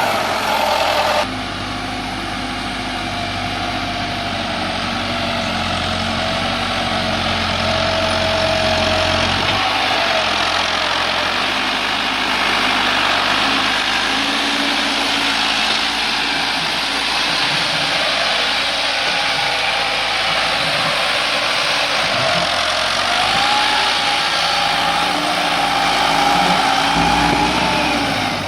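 Tractor engine running under load, its pitch rising and falling as it is revved, with an abrupt change about a second in.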